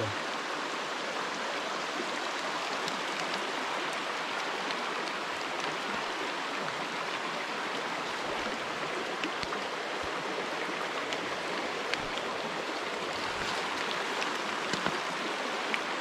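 Station Camp Creek running high, a steady rush of flowing water.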